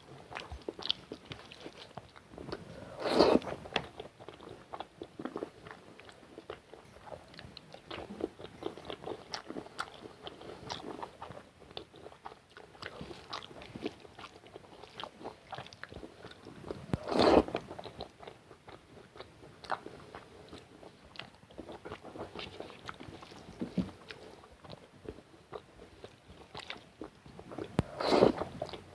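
Close-miked chewing and wet mouth sounds of a person eating rice with egg curry and dal, with many small clicks throughout. A louder burst comes three times: a few seconds in, about midway, and near the end.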